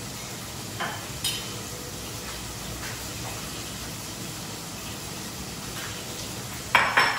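Onions and tomatoes frying in a pan with a steady sizzle. A few light knocks come early, and there is a louder clatter of utensils against the pan near the end.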